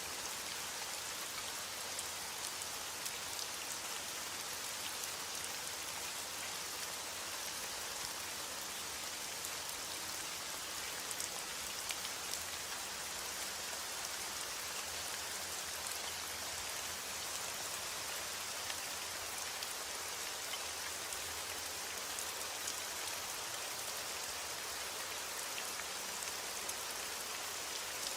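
Heavy rain falling steadily, a constant hiss of drops with a fine patter of individual drops through it.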